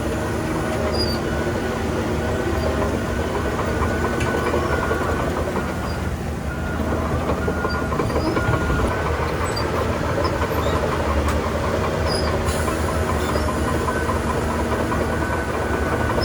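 Shantui DH17C3 crawler bulldozer working: its diesel engine runs steadily under a continuous rapid clanking of the steel tracks, with short squeaks now and then.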